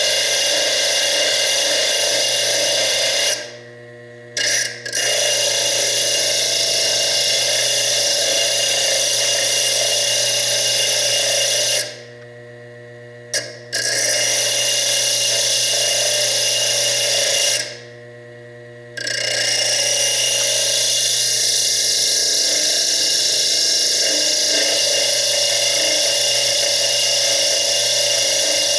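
Foredom bench lathe spinning a thin diamond slitting disc that grinds steadily into fire agate with a loud, even whine. Three times the disc is lifted off the stone for about a second, leaving only the quieter hum of the lathe running free.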